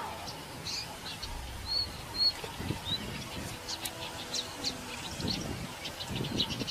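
Birds chirping: a few short high chirps in the first half, with scattered sharp clicks, over irregular low splashing of water.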